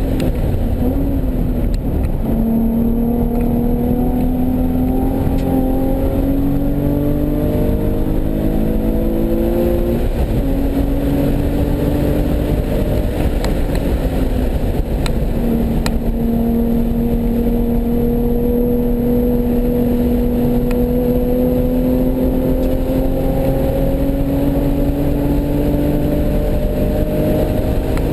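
Nissan 370Z's 3.7-litre V6 running hard on a race track, its note climbing steadily with the revs. The pitch drops sharply about ten seconds in and again around fifteen seconds, then climbs slowly through a long stretch, over steady road and wind rumble.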